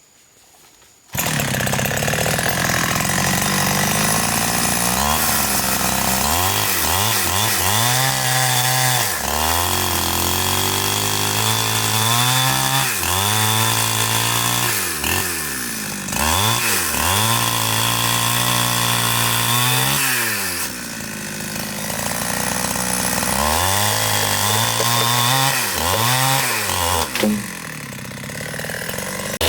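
Two-stroke chainsaw cutting into a big tree trunk. It comes in abruptly about a second in, and its engine pitch sags and recovers over and over as the chain bogs down in the wood. Twice the saw runs lighter and quieter, around two-thirds of the way through and again near the end.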